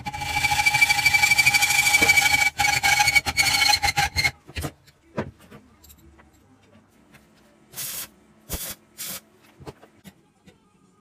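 Workshop tool noise: a small motorised tool runs with a steady whine for about four seconds and stops abruptly, followed by scattered clicks and three short rasping bursts.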